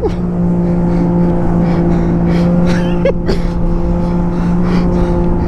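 Jet ski engine running at a steady high speed, about 80 km/h on the water: a constant, unchanging drone over a rushing hiss.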